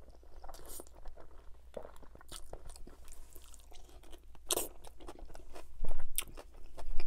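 Close-miked wet chewing of a mouthful of spaghetti bolognese: many small smacks and mouth clicks, with louder smacks about four and a half and six seconds in.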